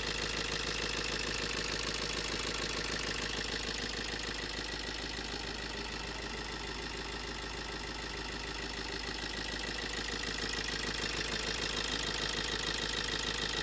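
Chevrolet Sail's engine idling steadily while it warms up, a few days' worth of running after being revived from long storage reduced to an even, regular idle.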